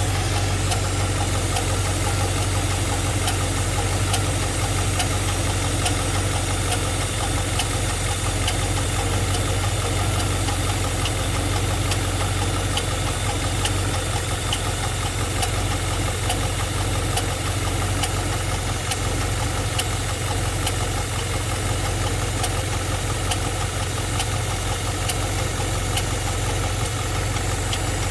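Pontiac G8's engine idling steadily with a light, regular ticking over the running.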